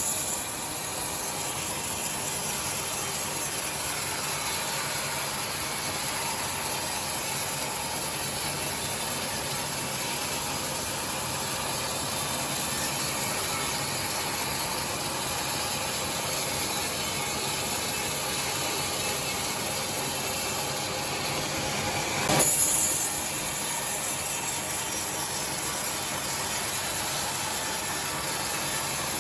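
Sawmill machinery running steadily with an even mechanical noise, during the ripping of timber into 2 cm boards. A brief, louder, noisy burst comes about 22 seconds in.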